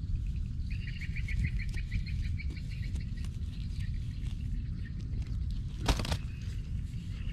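A bird's rapid trilling call, a quick run of short high notes lasting about two seconds, over a steady low rumble. A single sharp knock sounds near the end.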